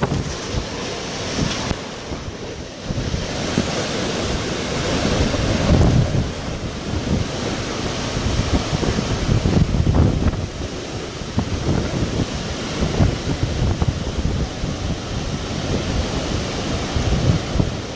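Hurricane-force wind gusting against the microphone: a loud, continuous rushing roar with low buffeting that surges and eases every few seconds.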